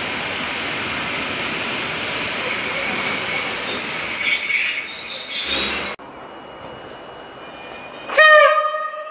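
An electric multiple unit approaches, its rail and running noise building to a loud peak with a steady high squeal about four seconds in. The noise cuts off suddenly, and near the end the train gives one short horn blast.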